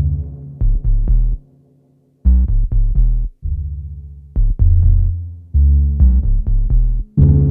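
Eurorack modular synthesizer sounding through an ADDAC 105 4Voice Cluster module: runs of short, bass-heavy pitched notes in a stop-start rhythm, with a silent gap about two seconds in and a held higher tone under some of the later notes.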